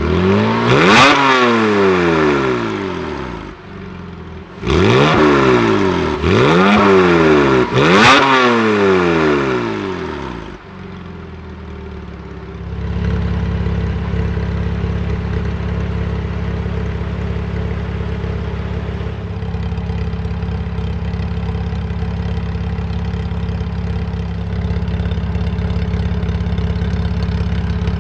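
Porsche Boxster S engine through a Capristo aftermarket exhaust, revved hard a few times with pitch sweeping up and falling back, then dropping to a steady idle for the last fifteen seconds or so.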